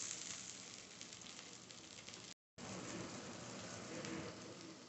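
Steamed gyoza sizzling faintly on a hot cast-iron grill pan, a steady quiet frying hiss that drops out for a moment about halfway through.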